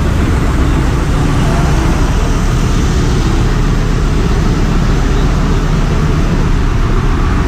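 Ship's engine-room machinery running: a loud, steady drone with deep low hum and a wide hiss above it, unchanging throughout.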